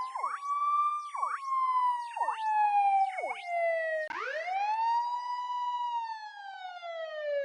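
Police car siren wail in an edited variation: the tone rises quickly, then slowly sinks, with short, quick falling chirps cutting across it about once a second. About four seconds in, a second wail rises and slowly falls again.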